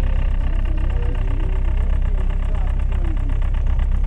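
Tour boat's engine running steadily, a deep low rumble with a fast, even pulse, while people talk in the background.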